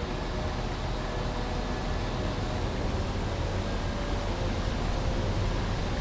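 Small brook flowing steadily: a continuous rush of water with a deep rumble beneath it.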